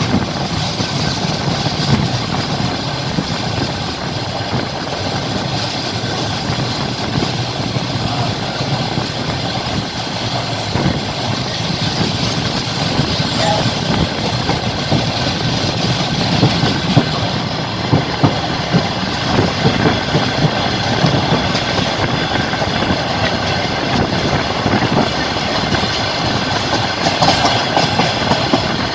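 Passenger train carriage running along the track, heard from the carriage window: a steady rumble and rail noise, with wheels clacking over rail joints, more often in the second half.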